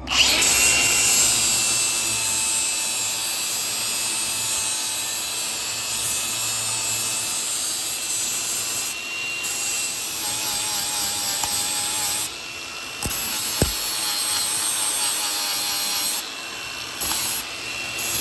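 Electric angle grinder grinding steel tubing, a steady whine over harsh grinding noise, easing off briefly a few times, with one sharp click about halfway through.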